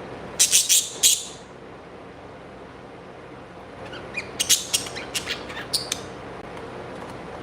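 Pet birds chirping in two quick bursts of sharp, high calls, one about half a second in and a longer run around four to six seconds in, over a steady background hiss.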